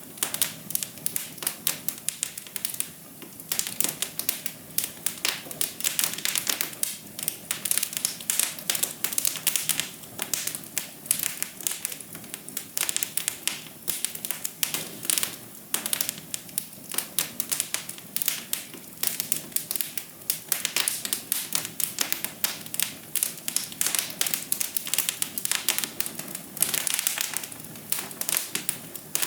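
Wood fire crackling in a fireplace: dense, irregular pops and snaps over a light hiss.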